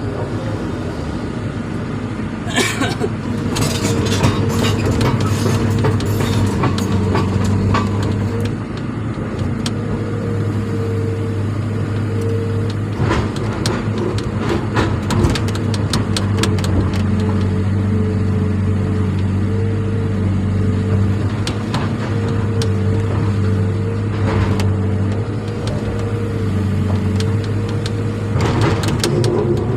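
A motor running steadily, with scattered clicks and rattles over it.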